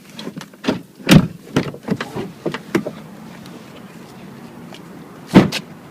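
Clicks and knocks of people moving about inside a car, then a car door shut with one loud thump about five seconds in.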